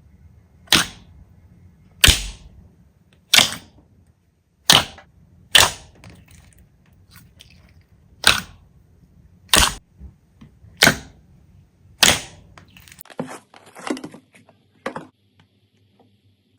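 Slime being pressed and worked, giving about nine sharp, loud pops a little over a second apart, then a short run of softer crackling near the end.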